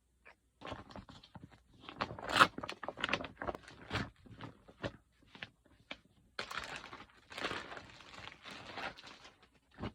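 Irregular rustling, tapping and clicking of objects being handled close to the microphone.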